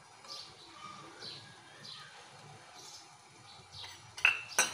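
Faint, short falling bird chirps repeating about once a second. Near the end, a few sharp clicks as a metal utensil knocks against the mixing bowl.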